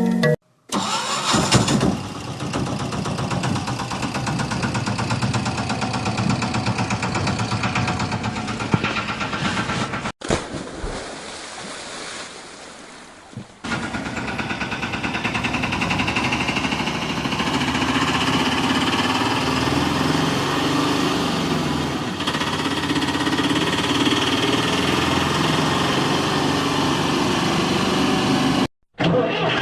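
A vehicle engine running at idle in several separate takes, broken by sudden cuts.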